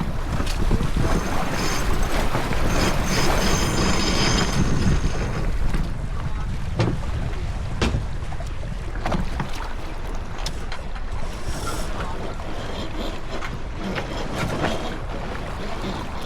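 Wind buffeting the microphone and water rushing along the hull of a J/24 sailboat under way. The hiss is strongest in the first five seconds and eases after, with a few sharp knocks from the boat's gear.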